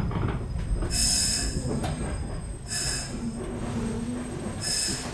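115-series electric train squealing three times in short high-pitched bursts over a low running rumble, the kind of wheel or brake squeal heard as the train draws into a station.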